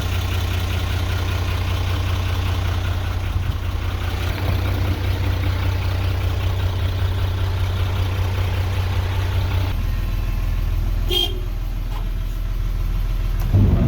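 Hino Ranger's H07C inline-six diesel engine idling steadily. Its sound changes abruptly about ten seconds in to a lower, duller hum. A short, sharp high sound comes a second later.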